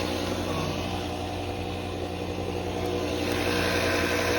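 V-twin motorcycle engine running steadily, getting a little louder in the second half.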